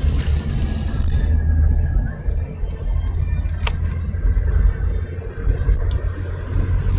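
Car cabin while driving: steady low road and engine rumble, with music playing from the car radio and a few sharp clicks.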